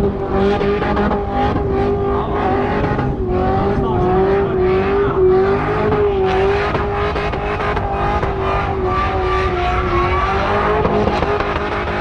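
V8 engine held at high revs through a sustained burnout, wheels spinning. The revs stay nearly constant with slight wavering for the whole stretch.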